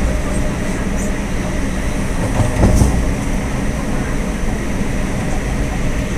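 Suburban electric train running at speed, heard from inside the carriage: a steady rumble of wheels on the track, with a louder clatter about two and a half seconds in.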